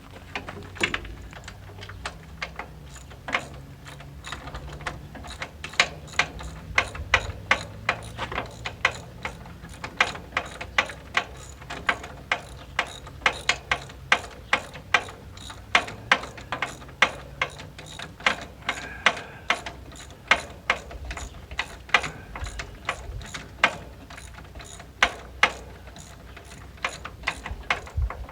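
Hand ratchet wrench clicking as a bolt is turned, a long run of sharp clicks at about two to three a second.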